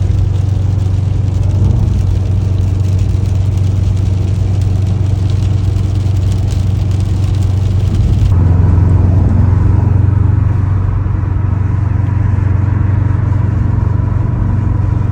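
Subaru Impreza STI's turbocharged flat-four running, with a steady low drone and road noise as the car drives. About eight seconds in, the hiss in the upper range drops away abruptly and a faint steady whine remains.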